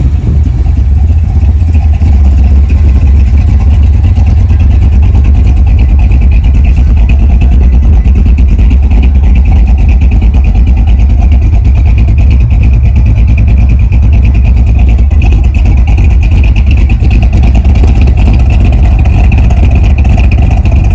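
Big-block Mopar V8 running steadily through 2-1/2" Flowmaster 44 series mufflers, a deep, even exhaust rumble. The exhaust has a slight leak at the flanges, which were fitted without gaskets.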